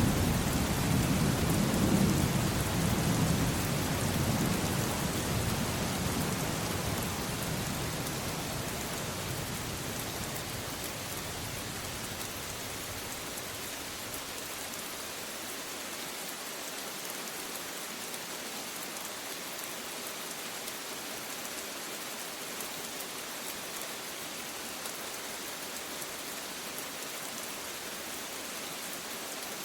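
Steady rain falling, with a low rumble of thunder at the start that dies away over the first ten seconds or so, leaving the even hiss of the rain.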